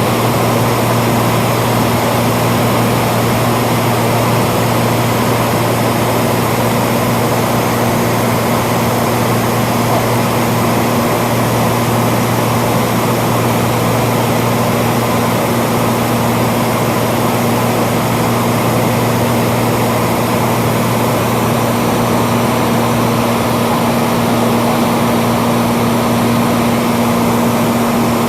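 Cessna 182's piston engine and propeller running steadily in flight: a constant, even drone with a strong low hum.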